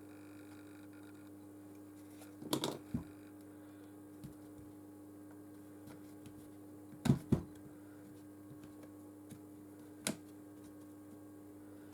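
A few sharp clicks and taps of a plastic pry tool working on a smartphone's case, a pair near the middle being the loudest, over a faint steady hum.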